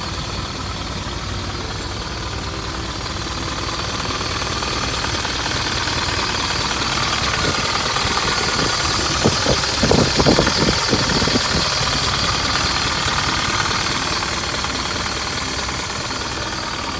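Isuzu Elf truck's engine running at idle, growing a little louder toward the middle and easing off again, with a short cluster of sharp knocks about ten seconds in.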